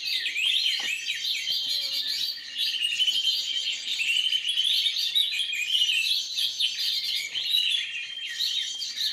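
Many small birds chirping and twittering at once, a dense chatter of quick high rising and falling notes that never lets up.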